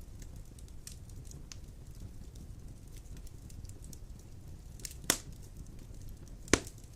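Wood fire of large logs burning in a stone fireplace: a steady low rumble with faint scattered crackles, and two loud sharp pops about five seconds in and again a second and a half later.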